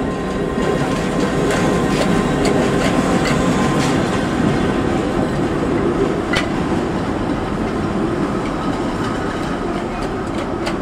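Kurobe Gorge Railway narrow-gauge trolley train running: a steady rumble of wheels on the rails with scattered sharp clicks, a few seconds apart, as the cars pass over rail joints.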